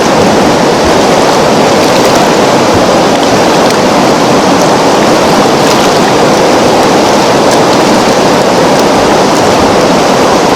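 Steady rushing of a flowing river, an even water noise that stays the same throughout.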